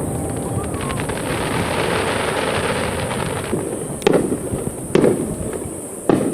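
A fireworks display: a dense stretch of rumbling, crackling shell bursts fades out, then three sharp booms go off about a second apart.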